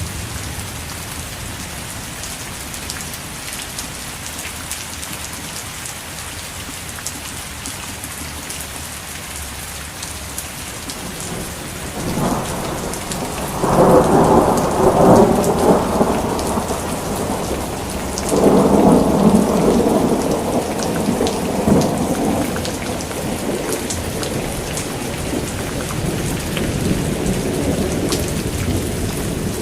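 Steady rain falling, with two long rolls of thunder in the middle, about twelve and eighteen seconds in, and more thunder rising near the end.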